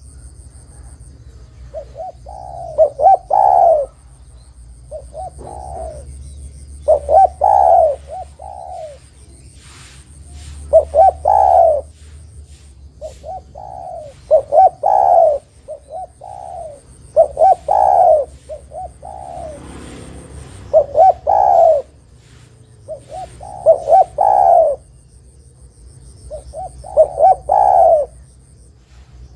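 Spotted dove (tekukur) cooing in repeated phrases of several short coos, a new phrase every few seconds.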